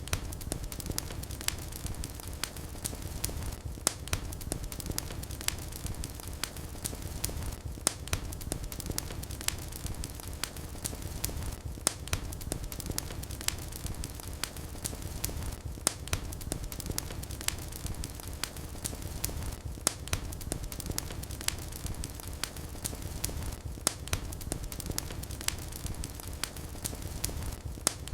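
Wood fire in a fireplace crackling steadily over a low rumble of flame, with frequent sharp pops and snaps. The same short stretch of crackling repeats about every four seconds, as a loop.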